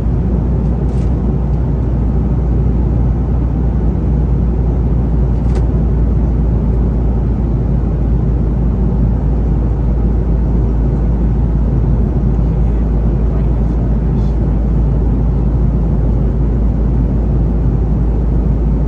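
Steady, loud airliner cabin noise in flight: an even low rumble from the engines and airflow, with no change in level.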